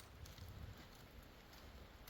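Near silence: a faint low rumble with a few soft ticks.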